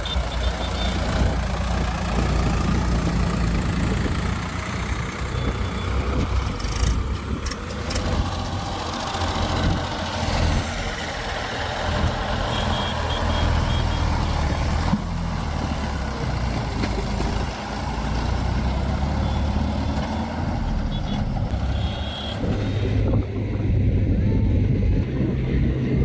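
Heavy diesel machinery running steadily at a soil-loading job: a JCB backhoe loader and a tractor working, a continuous low engine drone with its pitch shifting now and then.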